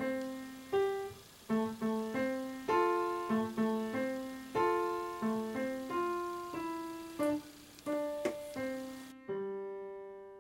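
Background music: a piano playing a melody of single notes and small chords, each note struck and fading away.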